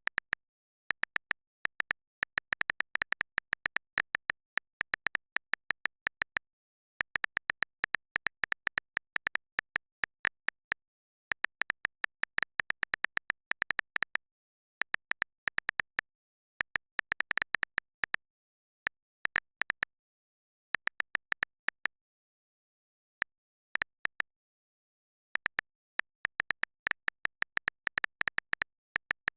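Rapid, sharp clicks with a high ring, coming in irregular clusters a second or two long and separated by gaps of dead silence.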